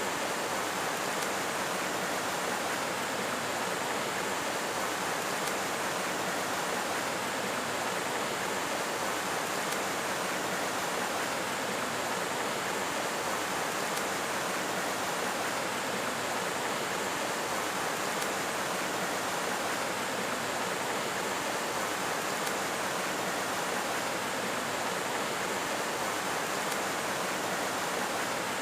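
Steady, unbroken rushing noise at an even level, with no knocks, tones or rhythm.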